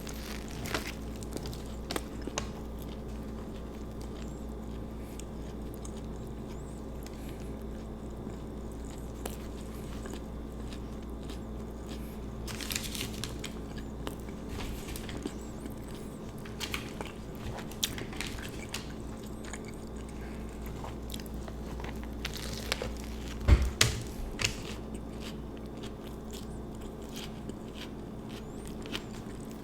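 Close-miked eating of an Italian sub sandwich: bites into the bread and vegetables, then crunchy, wet chewing, with scattered sharp crunches. The loudest bite comes about two-thirds of the way through.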